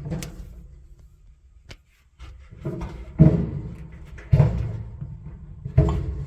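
Clothes dryer running: a low rumble with a heavy thump roughly every second and a half, dying away briefly about a second in and then picking up again.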